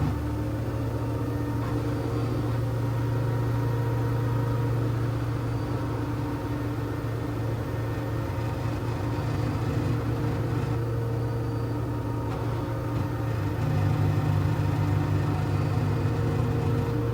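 LG washing machine running with a steady low motor hum, a little louder about two-thirds of the way through.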